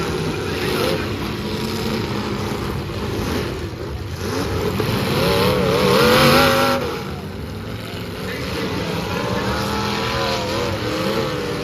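Demolition derby car engines running and revving, with pitch swinging up and down; the engines get louder about five seconds in, peak around six seconds, then ease back.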